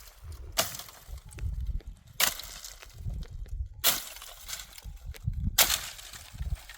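Firewood being chopped: four sharp strikes on wood, evenly spaced about a second and a half apart, with a low rumble between them.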